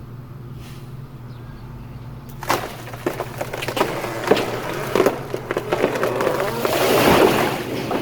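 A 5-ton military truck's engine runs steadily under load. About two and a half seconds in, the tree trunk starts cracking in a run of sharp snaps that build to a loud splitting crash near the end as the tree gives way to the cable pull.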